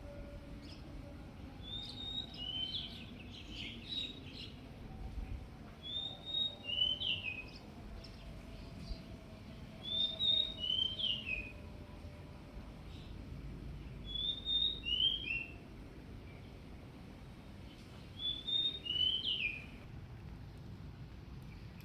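A small bird calling: a short phrase of two or three quick high notes ending in a falling slurred note, repeated five times about four seconds apart.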